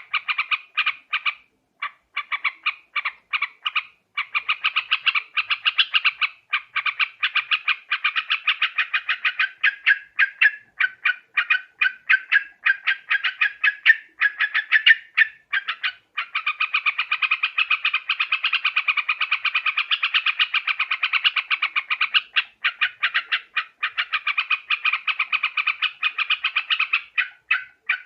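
Trucuk (yellow-vented bulbul) calling in fast runs of short, bubbly chattering notes, with a longer unbroken run of chatter in the middle. This is a lure-call recording used to draw the birds in.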